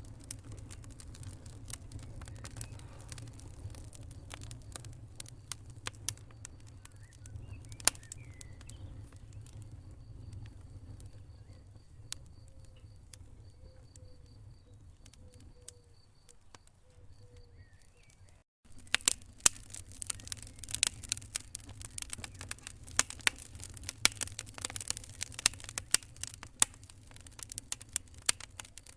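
Wood fire crackling and popping in a fireplace over a low, steady rumble. The pops thin out through the middle, then, after a brief break about two-thirds of the way in, come thicker and louder.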